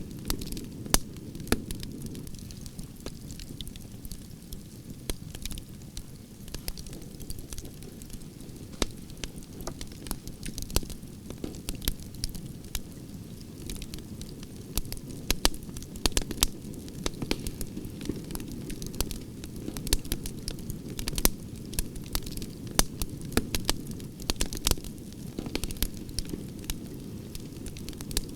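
Wood fire of burning branches crackling, with irregular sharp pops and snaps over a steady low rush of flames.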